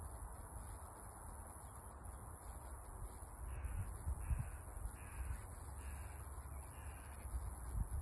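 A bird calling five times in quick succession, about one call a second, over a steady low rumble.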